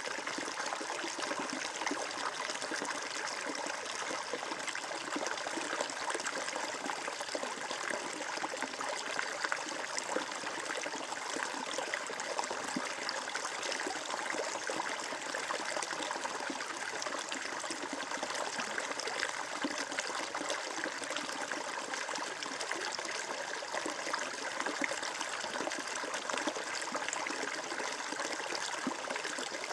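Water flowing and trickling steadily over stones, as in a small stream, with an even splashing hiss.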